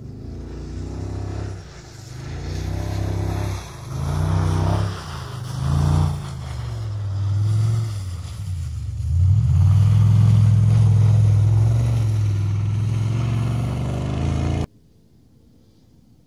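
Off-road racing vehicle's engine revving hard, its pitch rising and falling through the first half, then held loud and steady at high revs. The sound cuts off abruptly near the end, leaving only a quiet background.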